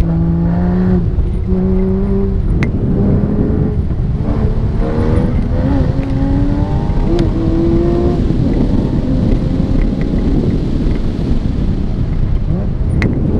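Porsche engine heard from inside the cabin on an autocross run, its pitch climbing and dropping repeatedly as the car accelerates, shifts and lifts between cones, over steady road and tyre noise. A few sharp clicks cut through it.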